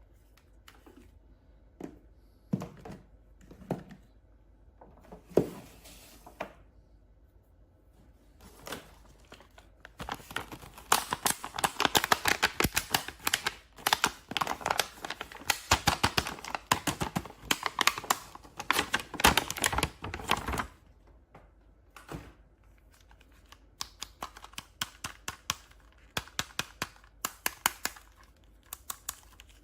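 Toy packaging being handled and opened: a few scattered knocks, then about ten seconds of dense crinkling and tearing of plastic and card, then a quick run of small clicks near the end.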